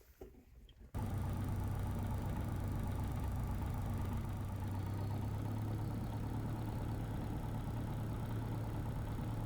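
Single-engine light aircraft's piston engine idling steadily, heard from inside the cabin; it comes in abruptly about a second in.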